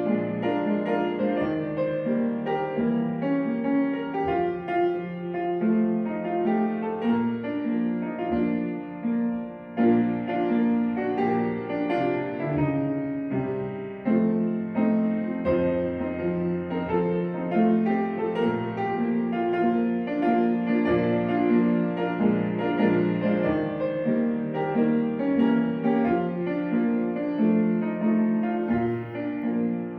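Gentle piano music, slow sustained chords and melody.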